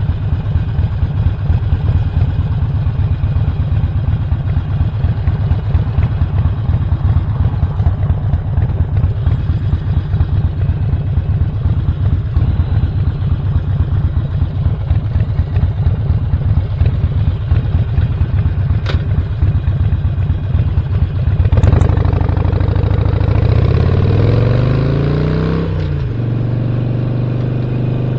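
The V-twin engine of a 2017 Harley-Davidson Sportster Roadster with a Stage 1 upgrade, running with a steady pulsing beat. About three-quarters of the way in there is a click, then the engine revs up for a few seconds as the bike accelerates, and the pitch settles steady near the end, as at a gear change.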